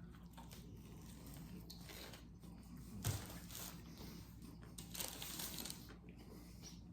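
Faint crunching and rustling of someone eating a toasted sub sandwich, in a few short spells a little before the middle and again later.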